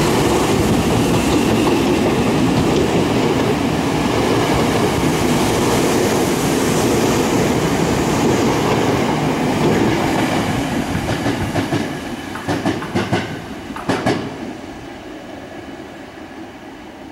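An electric commuter train runs through the station platform without stopping: a steady loud rumble of wheels on rail with clickety-clack. It fades after about ten seconds, with a quick run of sharp wheel clacks as the last cars pass, about 12 to 14 seconds in.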